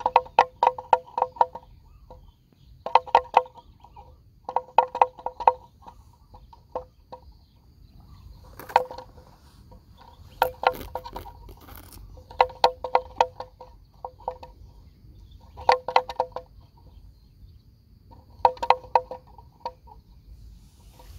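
A bird calling in repeated bursts of quick, pitched notes, several notes to a burst and a burst about every two seconds, over a faint steady high-pitched insect buzz.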